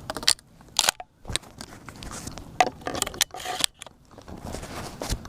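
Footsteps of a hunter walking through a marsh, an uneven run of crunching and crackling steps.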